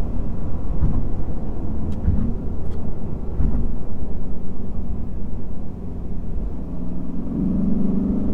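Lexus IS500 F Sport Performance's naturally aspirated 5.0-litre V8 running under way, a steady low rumble from the engine and exhaust. The engine note grows stronger about seven seconds in.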